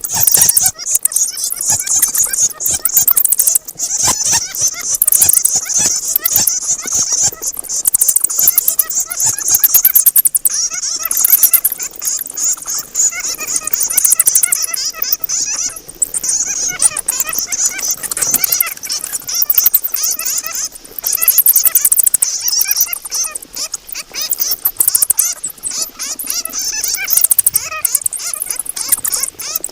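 Bats squeaking and chattering, a dense, unbroken stream of rapid high-pitched squeals and clicks.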